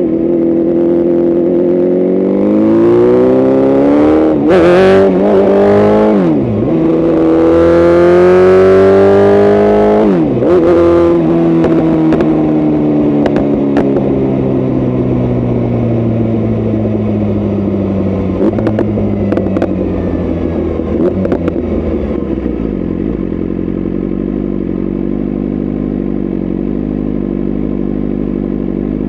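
BMW S1000RR inline-four motorcycle engine with an aftermarket tune and freer exhaust, accelerating hard with the revs climbing, dropping sharply at a gear change and climbing again. Then it decelerates in a long falling note with a few sharp cracks, and settles to a steady low-speed run in the last several seconds.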